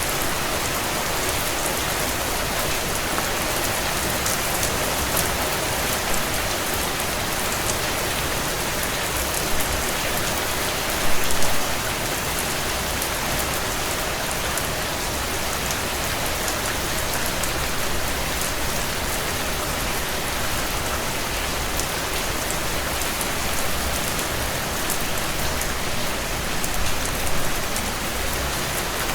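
Heavy rain drumming on a tin roof: a steady, dense wash of falling water with many sharp individual drop ticks on the metal. A brief louder cluster of hits comes about eleven seconds in.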